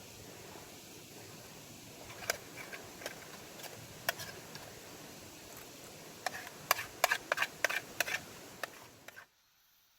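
Irregular sharp clicks and pops over a steady hiss, thickest in the last few seconds, then cut off abruptly near the end.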